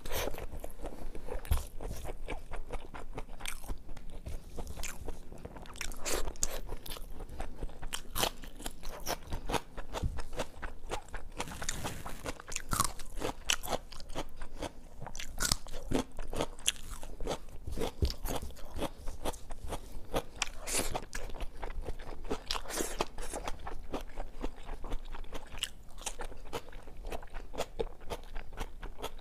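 Close-miked eating: a person chewing crunchy food with dense, irregular crisp crunches and mouth clicks throughout.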